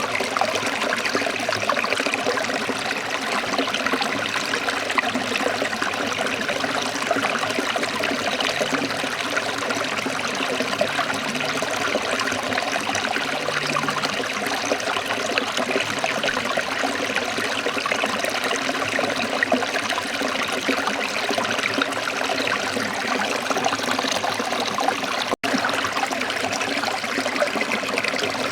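Waterfall: a steady, even rush of falling water, breaking off for an instant about three seconds before the end.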